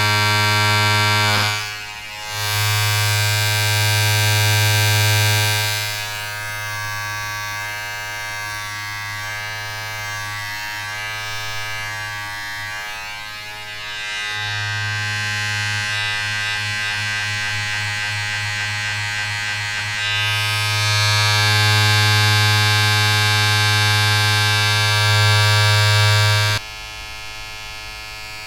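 A steady electric buzz like a small motor, alternating between louder and quieter stretches and dropping to a lower hum near the end.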